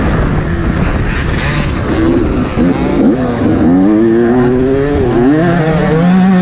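Yamaha YZ125 single-cylinder two-stroke motocross engine being ridden hard. Its pitch climbs with the throttle, drops sharply a couple of times as the rider shifts or backs off, and climbs again, over a rough rumble.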